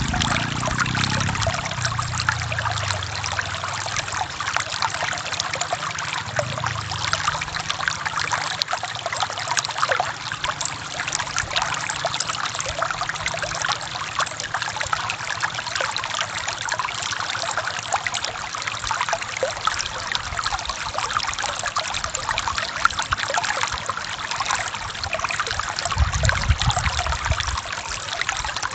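Forest stream running, a steady rush of water over rocks with many small splashes and trickles. A brief low rumble comes in near the end.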